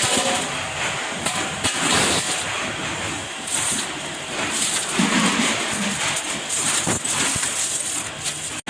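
Lock-factory machinery running with a dense clatter of metal knocks and clicks, briefly cut off near the end.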